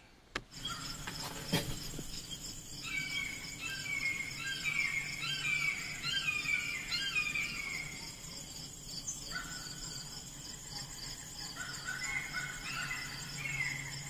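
Birds singing: repeated short downward-slurred whistled phrases that pause briefly, then resume near the end, over a steady high-pitched insect trill. A single sharp knock about one and a half seconds in.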